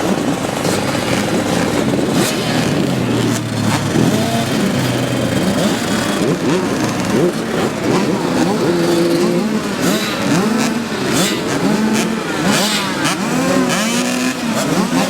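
Several small two-stroke youth motocross bikes (50cc and 65cc) revving and racing together, their engine pitches rising and falling over one another throughout.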